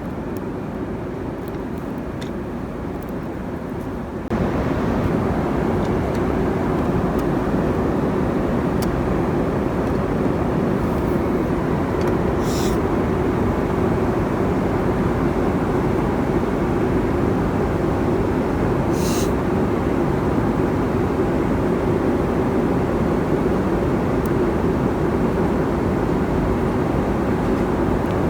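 Steady cabin noise of a Boeing 747-400 in cruise: a continuous rush of airflow and engine noise. It gets louder in one step about four seconds in, and there are two brief clicks later on.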